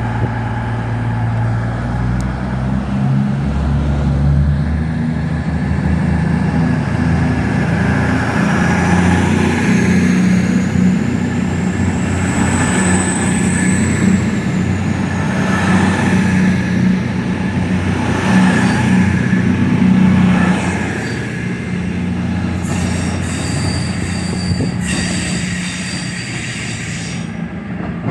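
A train moving through the station: a steady low engine drone, wheels knocking at a regular beat, and a high wheel squeal that rises and falls about halfway through. A high hiss comes in near the end.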